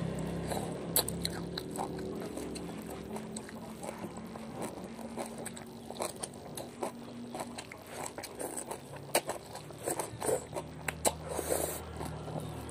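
Close-up chewing of a mouthful of stir-fried water spinach in spicy shrimp-paste sauce, with many short, sharp wet mouth clicks and crunches.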